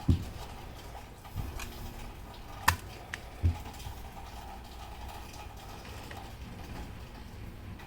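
A few irregular knocks and sharp clicks in the first few seconds, over a low steady hum.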